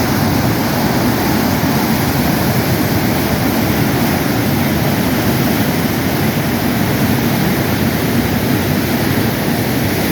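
Floodwater in a swollen creek rushing and churning over falls, a steady, loud, unbroken noise.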